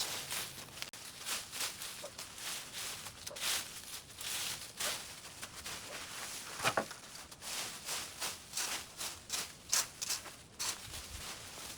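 Irregular rustling and crunching of dry brush and vines being handled during overgrowth clearing, with one sharper crack or snap about seven seconds in.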